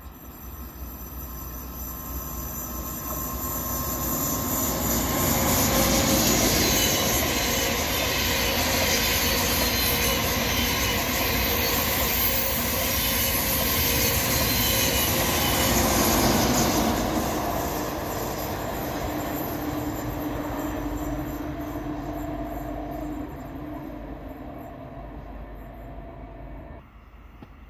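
ICE high-speed train passing at speed, wheels on rails. The noise builds over the first few seconds, stays loud for about ten seconds as the train goes by, then fades away.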